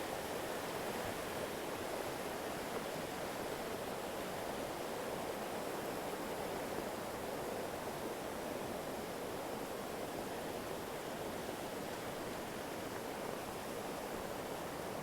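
Creek water rushing steadily over rocks, an even, unbroken wash.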